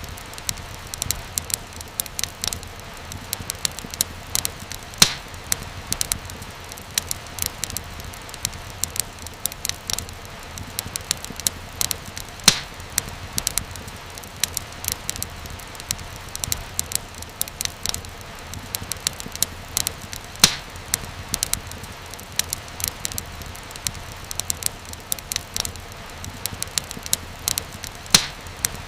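Fire in a fireplace crackling steadily over a low rumble, with frequent small snaps and a few louder pops spread through.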